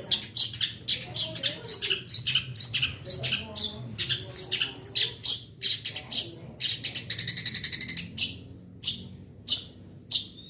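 Long-tailed shrike (cendet) calling: a quick string of short, sharp, high calls, broken a little past halfway by a fast rattling chatter lasting just over a second. The calls thin out near the end.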